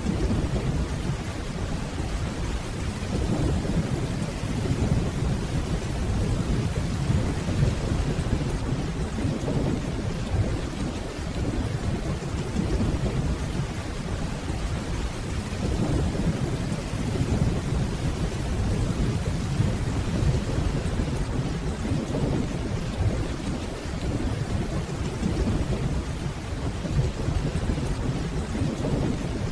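Steady rainfall with low, distant rolling thunder that swells and fades slowly a couple of times.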